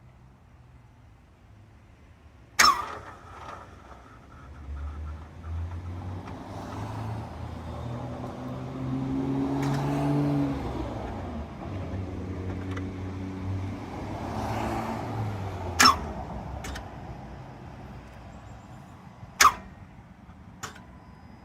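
A failed start attempt on a 2007 Honda Civic after months in storage. A sharp click, then a low mechanical drone that swells and fades over about twelve seconds, then more sharp clicks; the owner finds this start-up noise suspicious.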